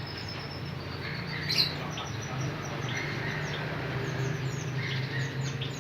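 Canaries chirping: scattered short, high chirps and quick little glides, with one sharper chirp about one and a half seconds in. A steady low hum runs underneath.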